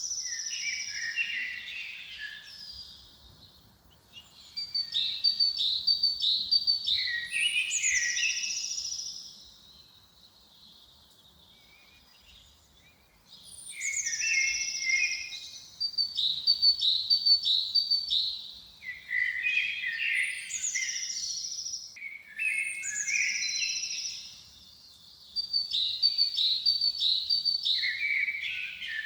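Forest songbirds singing in bouts of rapid, varied chirps and trills, with short pauses between the bouts.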